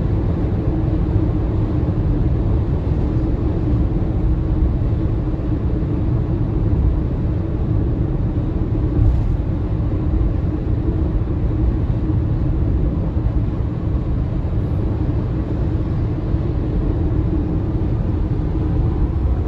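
Road and tyre noise of a moving MG ZS EV battery-electric SUV: a steady rumble with a low hum beneath it, and no engine sound.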